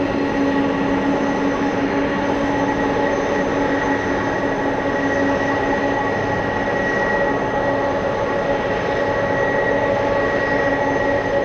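Jet engines of a Boeing 747-400 freighter running steadily: an even rush carrying several constant whining tones, with no rise or fall in level.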